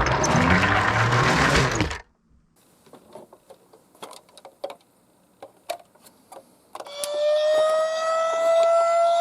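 Die-cast miniature toy cars roll and rattle down a slope for about two seconds. A stretch of quiet with scattered light clicks follows. About seven seconds in, an emergency-vehicle siren wail starts on one slowly rising pitch.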